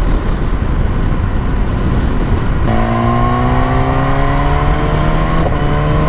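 BMW S1000R inline-four motorcycle on the move, heard from the rider with heavy wind and road rush. About two and a half seconds in, the engine note comes up clearly and rises slowly in pitch as the bike accelerates.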